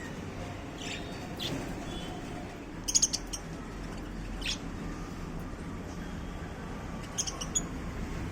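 Budgerigars giving short, sharp chirps and squawks in scattered bursts, the loudest cluster about three seconds in and another near the end, over a steady low background hum.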